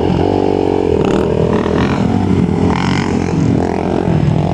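Off-road motorcycle engine running under throttle, its pitch shifting up and down.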